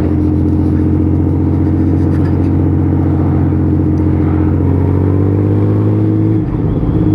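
Honda Valkyrie 1500's freshly rebuilt flat-six engine running steadily under way. Its note eases slightly lower about five seconds in and briefly dips shortly before the end.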